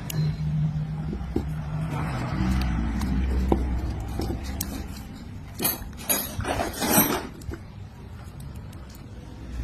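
Light clinks and rattling of small hard parts being handled, over a low hum. A cluster of sharper clicks comes about six to seven seconds in.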